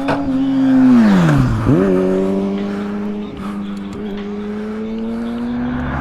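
Motorcycle engine running under way. Its revs dip sharply about a second in, pick straight back up, then climb slowly and evenly.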